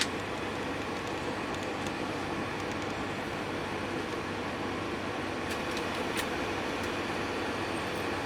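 Steady engine and road noise heard inside a moving bus cabin, with a few faint rattling ticks about five and a half to six seconds in.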